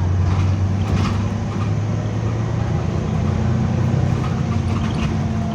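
Double-decker bus engine running with a steady low drone, with a couple of faint clicks or rattles about a second in and near the end.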